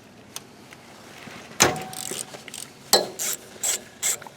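Quarter-inch ratchet on a long extension undoing the actuator's mounting bolt: a sharp metal clank with a brief ring about a second and a half in, then from about three seconds in, quick ratchet strokes, two or three a second.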